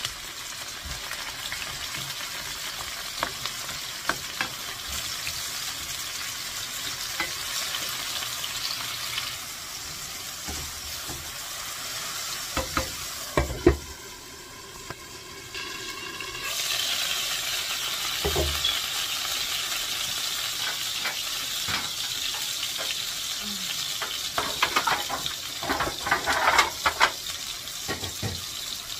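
Chopped tomato, onion and garlic sizzling in oil in a frying pan on a gas burner, with scattered clinks and scrapes of stirring. About halfway through, a clatter is followed by a few seconds of duller, quieter sizzle while a glass lid covers the pan; then the sizzle comes back strongly.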